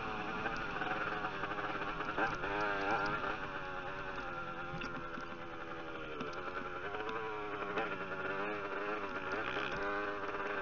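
Motocross bike engine heard from an onboard camera, its pitch rising and falling again and again as the throttle opens and closes.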